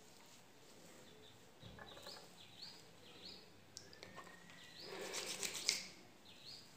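A bird chirping repeatedly, short rising notes about twice a second, with one longer rising whistle. About five seconds in, a brief burst of rustling and handling noise close to the microphone is the loudest sound.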